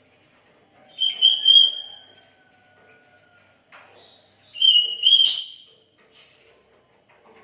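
Sooty-headed bulbul (kutilang) singing: two loud whistled phrases, one about a second in and another about five seconds in, with faint chirps between them.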